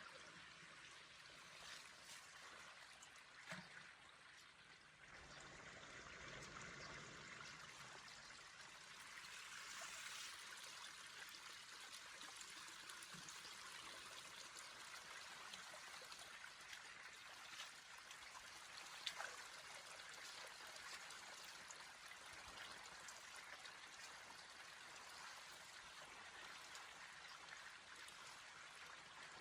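Faint, steady trickle of flowing water, with a couple of brief knocks.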